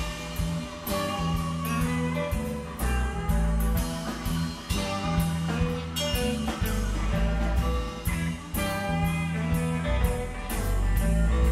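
Live blues-rock band jamming instrumentally: electric guitar lead over bass and drum kit with a steady beat.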